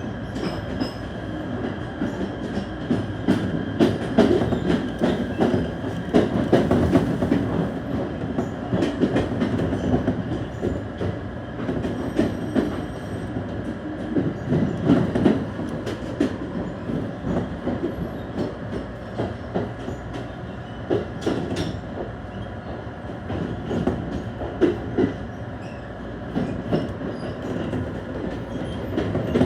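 Running noise heard from inside an ET127 series electric train car: a steady rumble of wheels on rail, with irregular clicks and knocks from the track.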